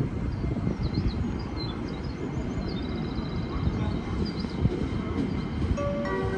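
A train running at the station, with gusty wind on the microphone. Near the end a station melody of steady tones starts to play.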